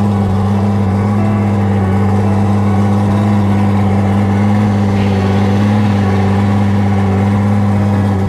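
Evinrude G2 250 outboard motor running at a steady speed: a loud, deep drone that holds one pitch.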